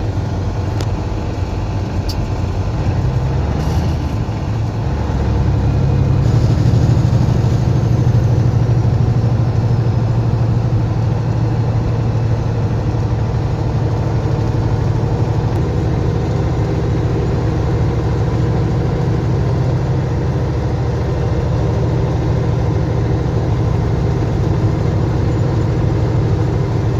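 Semi truck's diesel engine running on the road, heard from inside the cab: a steady low drone that grows louder about six seconds in and then holds.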